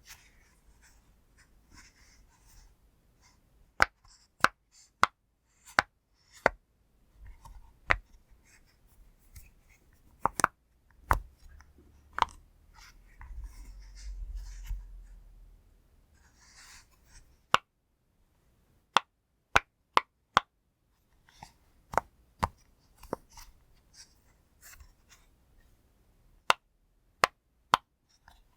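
Sharp single pops of a pop toy being pressed one by one at an uneven pace, with pauses and faint handling rustle between them.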